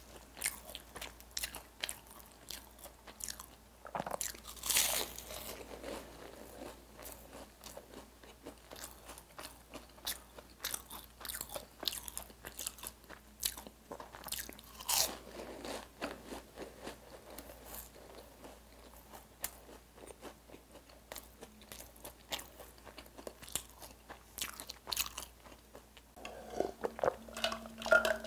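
Close-up crunching and chewing of flaky egg tart pastry, with sharper crunches at a couple of bites. Near the end come gulps of milk from a glass.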